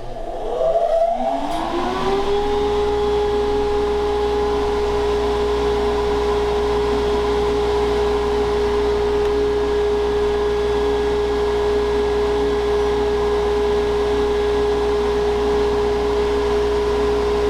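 Shop dust collector switching on: its motor spins up over about two seconds with a rising whine, then runs steadily with a level whine over a low hum, pulling air through the table saw's dust port.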